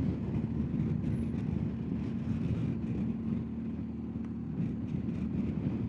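BMW R1250GSA motorcycle under way at steady speed: the boxer-twin engine's even drone mixed with wind and road rush.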